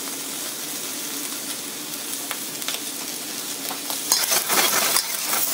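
Pork spareribs with garlic, ginger and onion sizzling in hot oil in a wok over high heat. The sizzle grows louder and rougher about four seconds in, with irregular scrapes of the metal spatula stirring in the wok.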